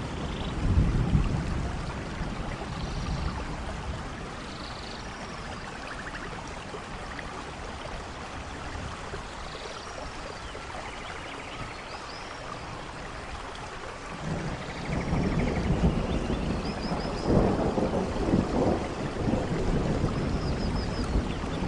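Steady rain falling in a forest, with low rolling thunder about a second in and again through the last third, where it grows louder. Faint high chirps sound above the rain.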